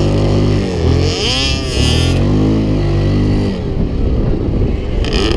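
Off-road vehicle engines revving, the engine note rising and falling several times, with one clear swell up and back down about a second in.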